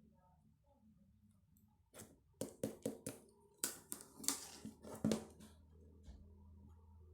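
A quick run of about a dozen sharp clicks and light knocks, beginning about two seconds in and stopping about three seconds later, like small objects being handled close to the microphone.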